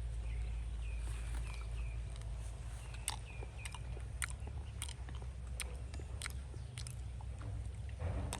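A series of sharp clicks or crunches, irregularly spaced through the second half, with short high chirps in the first half over a steady low hum.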